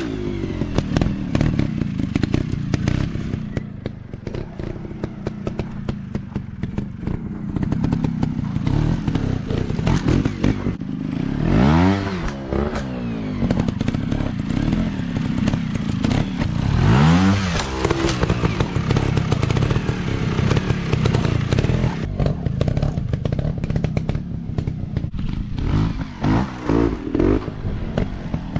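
Dirt bike engines running at low revs with an uneven throb, blipped hard a few times so the pitch sweeps up and falls back, with loose clattering along the way.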